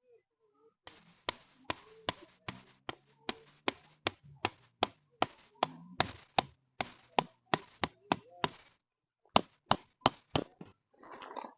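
Hammer blows on a metal tent stake, quick and regular at about three a second, each strike ringing briefly. The hammering stops for a moment about nine seconds in, resumes for a few more blows, and ends with a short rustle.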